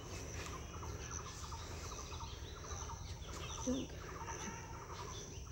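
Wild birds calling in woodland: clusters of quick chattering notes about once a second, over a steady high-pitched hum and a low rumble. A brief lower-pitched sound comes about four seconds in.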